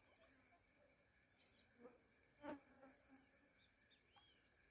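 Faint outdoor insect chorus: a steady, high-pitched trill pulsing rapidly and evenly. A faint short bird chirp sounds near the end.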